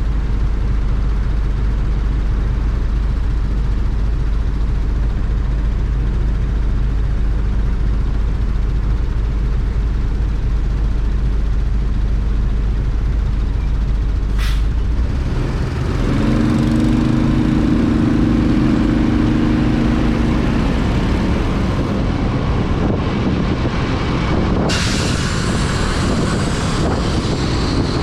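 Ride noise on a Corven 110 Energy motorcycle in the rain: a steady low engine and road rumble mixed with wind. About halfway through, a steady two-note drone is heard for a few seconds. Near the end, a hiss of wet road and spray grows louder.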